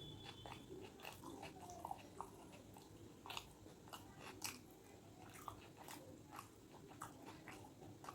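A person chewing and biting food, with wet mouth sounds and sharp crunches and smacks at irregular intervals, the loudest about two, three and four and a half seconds in.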